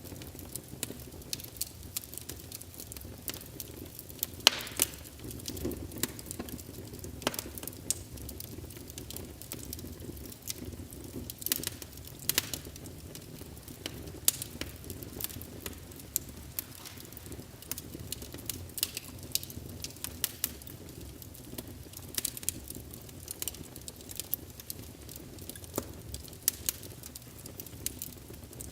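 Burning logs in a fireplace crackling, with frequent sharp pops over a steady low rumble of the flames.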